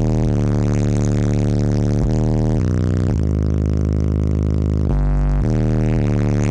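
Bass-heavy music played very loud through a car audio system, long held low bass notes that shift to a new pitch every second or so.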